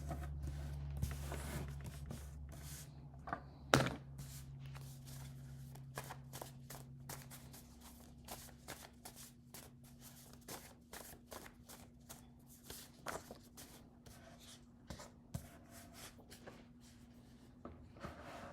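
A deck of message cards being shuffled and handled by hand: a long run of soft, irregular card slaps and flicks.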